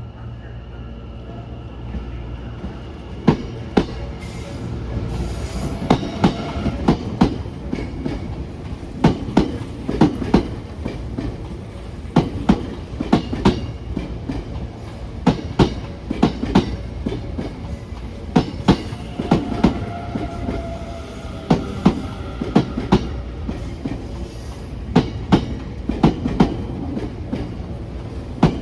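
Electric train set 10001F running out of service, its wheels clicking over rail joints in repeated pairs and groups above a steady running rumble, with a faint wheel squeal at times.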